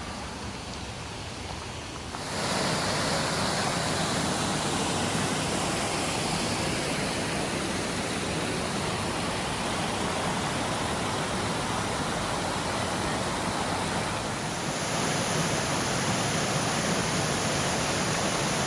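Steady rushing of a waterfall, cutting in suddenly about two seconds in.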